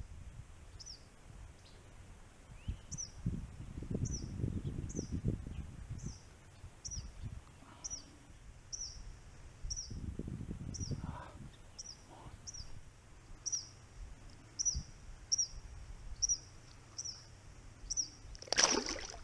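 A bird repeating a short, high, falling chirp about twice a second. Low rumbling noise on the microphone comes twice, and there is a brief louder noise near the end.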